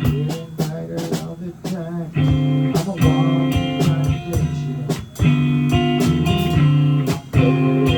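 Live band playing a blues-style number: guitar chords ringing over regular drum hits.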